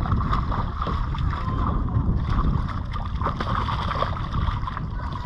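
Wind rumbling and buffeting on the microphone over the wash of water around a wharf.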